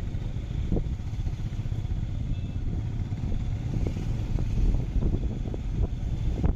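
Motorcycle running on the move, a dense uneven rumble with a few light knocks.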